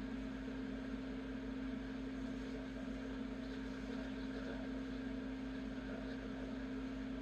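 Soldering torch flame hissing steadily while heating a silver piece for solder flow, over a constant low hum.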